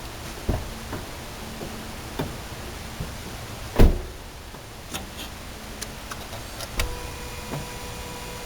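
A string of clicks and knocks, with one loud thump about four seconds in, over a steady background; a steady whine starts near seven seconds.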